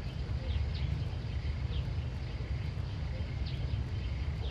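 Outdoor rural ambience: a steady low rumble with several short, high, falling chirps from small birds scattered through it.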